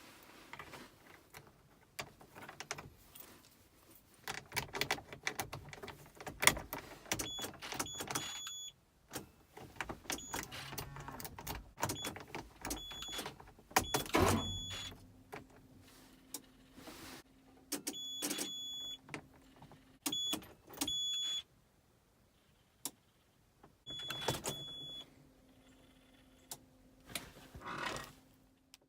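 Keys jangling, with clicks and knocks of a pickup truck's door and controls. The truck's electronic chime beeps in short runs of evenly spaced high tones, and a steady low hum comes on for a few seconds at a time in the second half.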